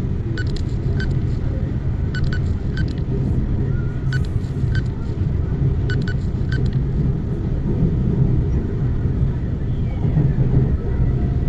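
East Rail Line R-Train electric multiple unit running along the line, heard from inside the passenger car: a steady low rumble, with light clicks now and then, some in quick pairs, during the first seven seconds.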